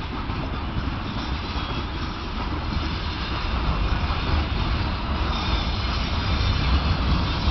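Open freight wagons of a freight train rolling past close by on the track: a steady rumble of wheels on rails that grows slightly louder.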